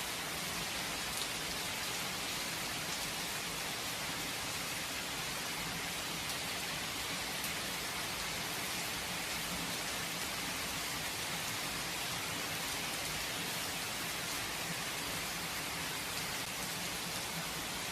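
Steady rain falling, an even hiss of drops with faint scattered patters, without thunder.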